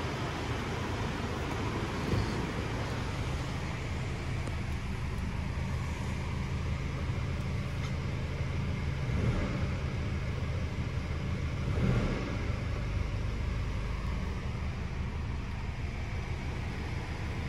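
Ford Ranger's 2.0-litre bi-turbo four-cylinder diesel engine running steadily, with a few brief swells in level.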